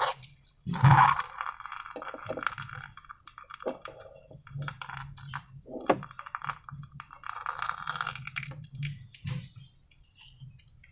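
Hands working with slime and balloon-making materials: an irregular run of clicks, taps and short crackling squishes, loudest around the start and again about a second in.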